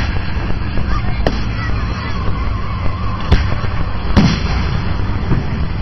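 Fireworks shells bursting in the air: several sharp bangs, the strongest about three and four seconds in, over a continuous low rumble.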